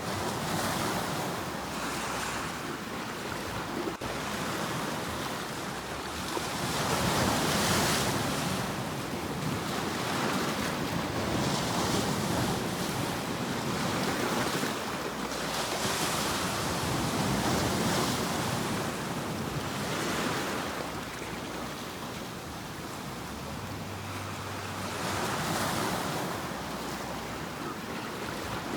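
Sea waves breaking and washing on the shore: the surf swells and falls back every few seconds, with no other sound over it.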